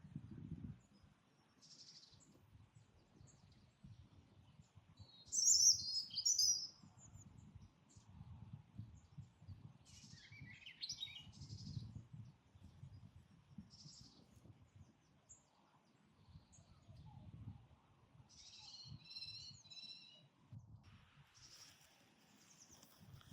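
Wild songbirds singing in short separate phrases, the loudest about five seconds in, others around ten and nineteen seconds in, over a faint low uneven rumble.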